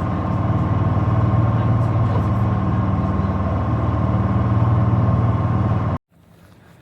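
River bus engines droning steadily inside the passenger cabin, a deep hum with a steady whine above it, cutting off abruptly about six seconds in.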